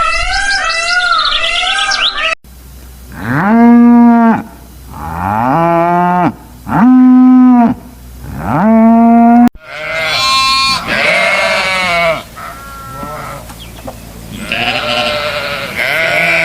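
Farm animals calling, in separate clips joined by abrupt cuts. A warbling call comes first. About two seconds in, four long drawn-out calls follow, each rising at the start and falling at the end. Past the halfway point comes a busier stretch of shorter overlapping calls.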